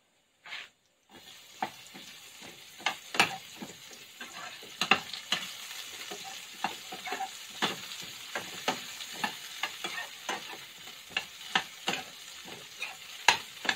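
Onion and garlic frying with a steady sizzle in a stainless steel pan, stirred with a metal spoon that clicks and scrapes against the pan many times. The sizzle starts about a second in.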